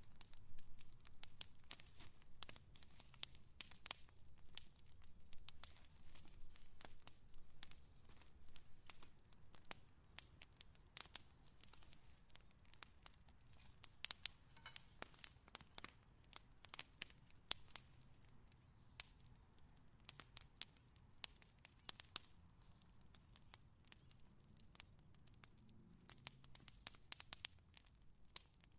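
Wood fire crackling: irregular sharp pops and snaps, thicker in some stretches and sparser in others, over a faint low rumble of the flames.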